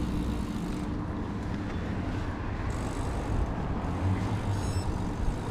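Town road traffic: a steady rumble of passing vehicles, with a low engine hum that fades about half a second in and another that rises around four seconds in.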